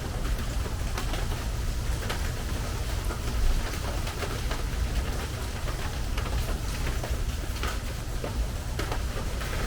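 Rain drumming on a metal porch roof: a steady patter with many individual drops ticking sharply throughout, over a low rumble.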